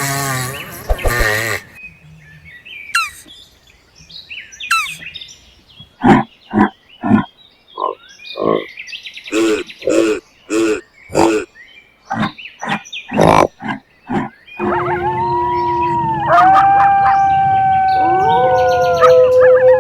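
Animal calls: a few brief chirps, then a run of about a dozen short pitched calls spaced about half a second apart, then long held calls that slide between steady pitches from about three quarters of the way in.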